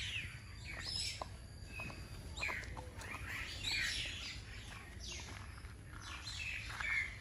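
Birds chirping, short scattered calls, many sliding down in pitch, over a low steady rumble.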